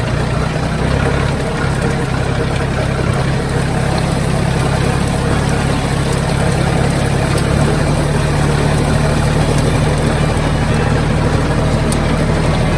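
Tractor engine running steadily, its low note changing slightly about seven and a half seconds in.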